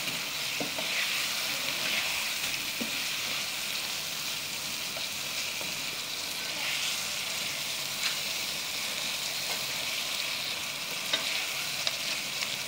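Chicken pieces and spice masala sizzling in oil in a kadhai while a spatula stirs them, with a few sharp clicks of the spatula against the pan, most of them near the end.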